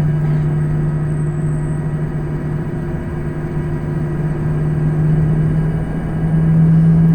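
Cabin noise inside an Embraer 175 on the ground, with its twin GE CF34 turbofan engines at low taxi thrust: a steady drone with a thin high whine above it. The drone swells a little near the end.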